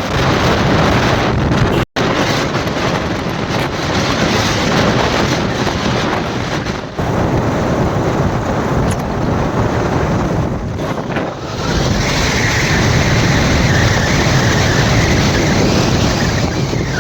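Wind rushing over the microphone of a moving motorcycle, with the bike's engine running low underneath. The sound drops out completely for an instant about two seconds in, and a steady high tone joins about twelve seconds in.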